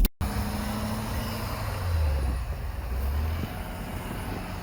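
Vehicle engine running with road noise, a steady low drone that swells slightly about two seconds in.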